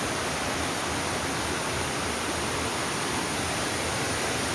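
Steady rush of flowing water in a stream near a waterfall, an even, unbroken noise.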